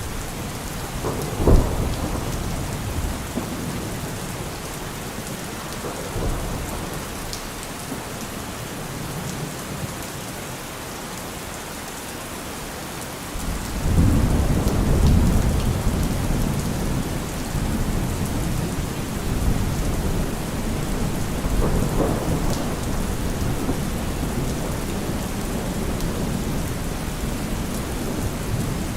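Steady rain falling, with thunder. A sharp thunderclap comes about a second and a half in. About halfway through, a long low rumble rolls in and carries on, swelling again later.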